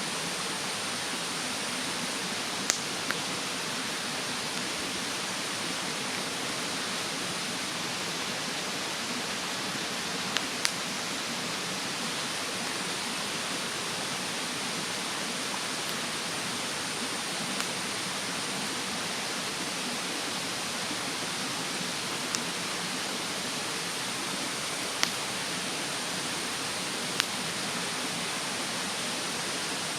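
Wood fire burning in a fire stand, with a handful of sharp crackling pops spread through, over a steady rushing of a mountain stream.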